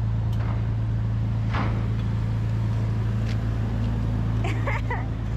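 Engine running with a steady low drone, with faint voices in the background.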